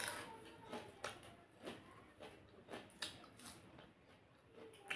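Faint eating sounds: soft chewing and wet mouth noises, with several short sharp clicks spread through.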